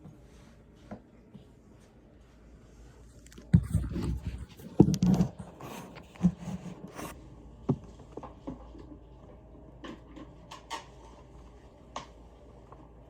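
Handling noise from snake-feeding gear: a burst of knocks, rustling and scraping about three to seven seconds in, then a few scattered light clicks.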